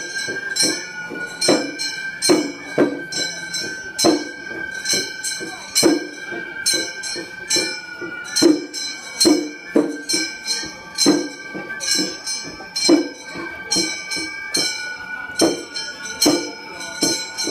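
Gion-bayashi festival music: a bamboo flute holding long high notes over small hand-held kane gongs struck in a steady beat, a little faster than one strike a second.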